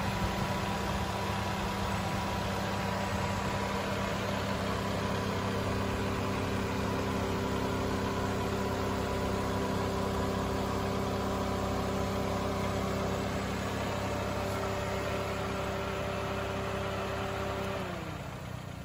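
A Daihatsu Copen's 659 cc turbocharged twin-cam inline-four idling steadily, heard from the open engine bay as an even hum. Near the end its pitch falls and it fades.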